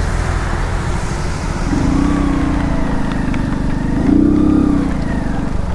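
Motorcycle engine running as the bike rides along a wet road, its pitch rising and falling a few times as the throttle is opened and eased, over a steady rushing noise.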